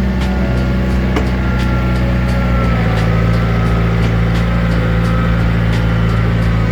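John Deere 110 TLB tractor-loader-backhoe's diesel engine running steadily, its pitch dipping slightly about three seconds in.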